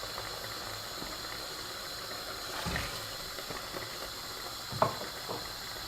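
Pot of beef stock simmering on the hob: a steady hiss with a few faint pops and soft knocks.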